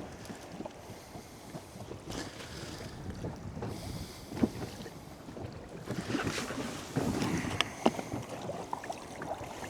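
Water lapping and sloshing against the side of a small boat riding at anchor, with wind buffeting the microphone and a few light knocks, one about four and a half seconds in and two close together near eight seconds.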